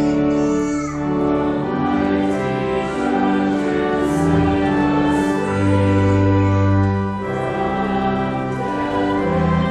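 Church music: held organ chords with deep bass notes, with voices singing along, as in a hymn.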